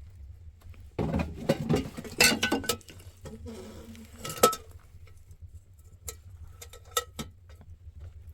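Objects being handled: a burst of rustling and clattering about a second in, then a louder clink and a few sharp clicks later on, over a steady low rumble.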